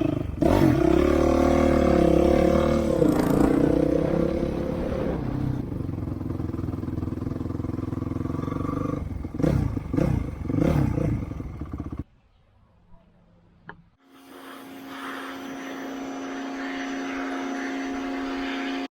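Engine running and revving, its pitch rising and falling, then cutting off abruptly about twelve seconds in. After a brief near-quiet gap, a steady pitched hum builds gradually.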